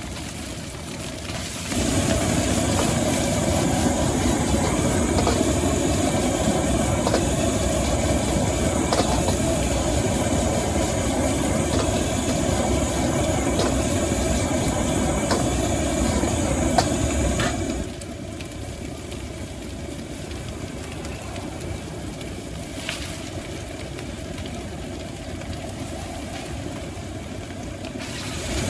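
A high-pressure gas wok burner running with a steady roar, turned up about two seconds in, down again around eighteen seconds and back up at the end, with a few light clicks during the loud stretch.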